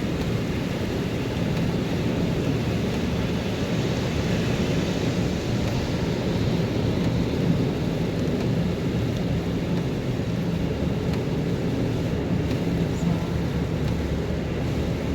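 Steady low rumble of a car driving: road and engine noise that holds an even level throughout.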